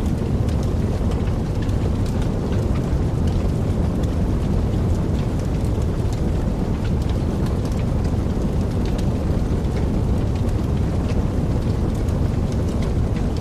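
Wood fire burning in a fireplace: a steady low rumble of the flames with many small crackles and pops scattered throughout.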